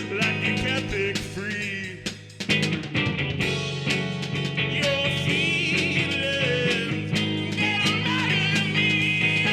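Indie rock band playing live, with guitar and a sung or lead melody over a steady drum beat; the sound thins out briefly about two seconds in, then the full band comes back in.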